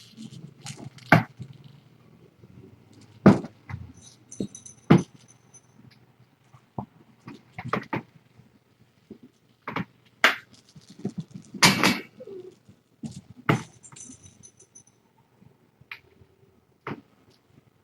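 Irregular sharp knocks and clicks, about a dozen, with a brief high metallic jingle twice, around four seconds in and again near fourteen seconds.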